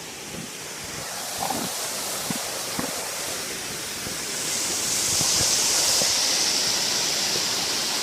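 Rushing water of a waterfall, a steady hiss that grows louder about halfway through.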